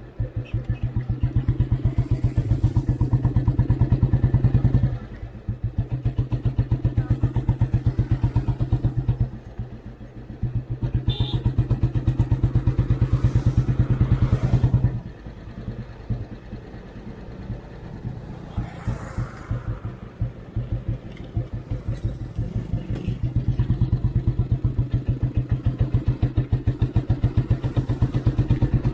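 Royal Enfield Bullet Standard 350's single-cylinder four-stroke engine thumping under way, pulling for a few seconds at a time and easing off about five and ten seconds in, then for a longer spell of about eight seconds in the middle before it pulls again near the end. The engine is freshly rebuilt with a new piston and is being ridden gently while it runs in.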